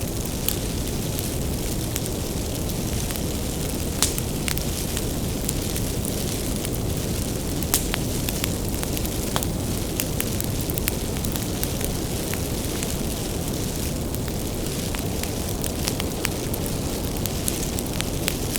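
Bonfire of burning firewood: a steady low rumble of flames with frequent sharp crackles and pops, a few of them louder, about 4 and 8 seconds in.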